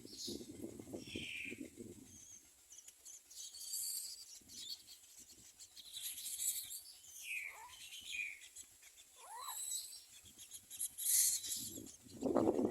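Common myna nestlings calling from the nest: a run of high chirps and short sliding calls, with a lower, buzzier sound in the first two seconds and again near the end.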